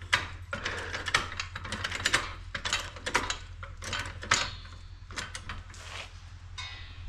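Hand-tool work on metal: a run of irregular clicks and clanks, like a wrench being worked, with a brief metallic squeak about four seconds in and again near the end, over a steady low hum.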